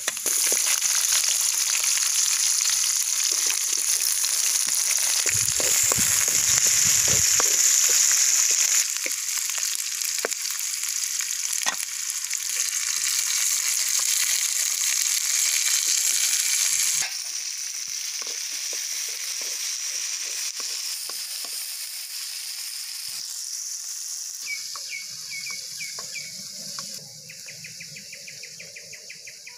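Garlic, leaves and whole spices sizzling in hot oil in an aluminium wok over a wood fire, with a wooden spoon now and then scraping the pan. The sizzle is loud, then drops quieter a little over halfway through.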